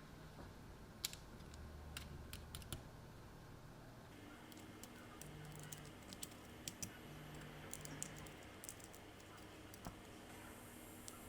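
Faint, irregular light clicks and taps, a few a second at most, over a low steady background hum that shifts slightly about four seconds in.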